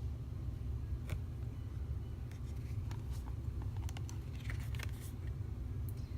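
Oracle cards being handled: light clicks and slides of card stock as cards are moved, scattered mostly through the middle, over a steady low hum.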